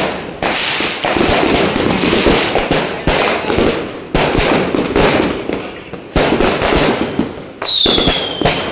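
Fireworks going off in rapid succession: loud bangs about every half second to a second with crackle between them. Near the end a whistling firework sounds, its whistle falling in pitch.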